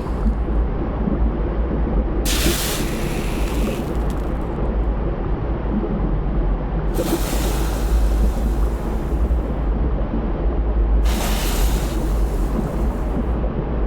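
Volcanic eruption: a heavy, steady low rumble, with three spells of loud hissing rush laid over it.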